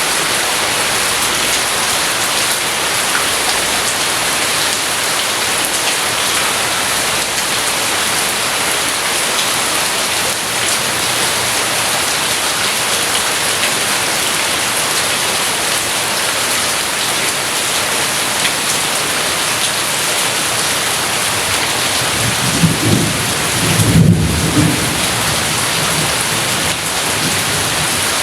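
Steady heavy rain hissing, with a short low rumble of thunder near the end.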